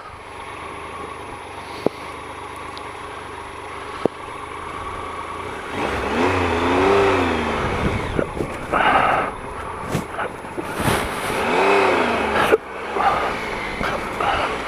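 Triumph Explorer 1215cc three-cylinder motorcycle engine ticking over at low revs through thick mud, then revved up and back down a couple of times as the bike is worked through the ruts.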